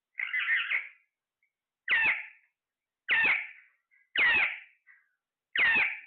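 A parrot giving the same call five times, about one call every second and a bit, each starting sharply and trailing off within half a second.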